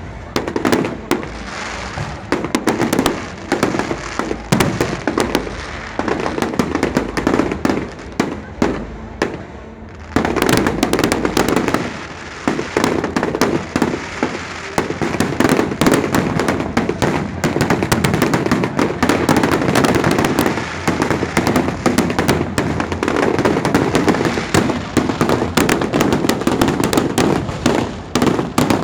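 Firecrackers going off in a dense, continuous string of rapid cracks and pops, easing briefly about ten seconds in before picking up again.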